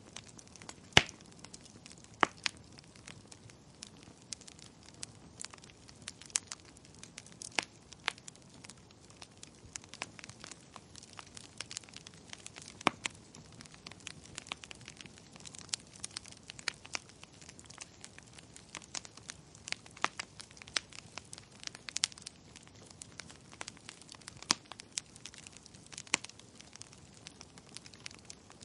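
Wood fire in a fireplace crackling, with irregular sharp pops of varying loudness, the loudest about a second in, over a soft steady hiss.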